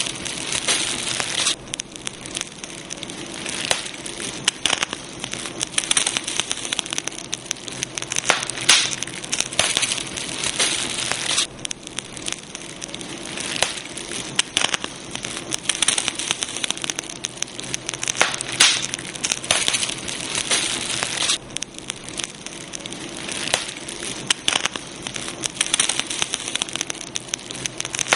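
Campfire crackling and popping steadily, with dense irregular snaps over a soft hiss of burning wood.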